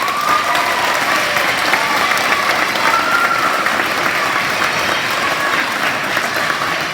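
Audience applauding steadily, starting abruptly and holding at full strength.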